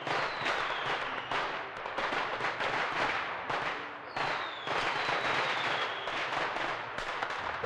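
Fireworks: a dense, continuous crackling and popping, with a falling whistle near the start and another about four seconds in.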